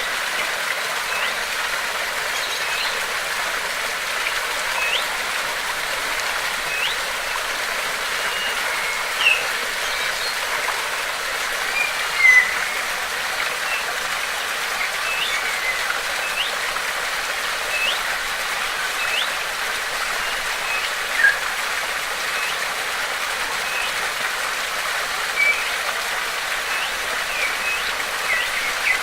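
Steady rush of flowing water, with short high bird chirps every second or two and a few louder calls among them.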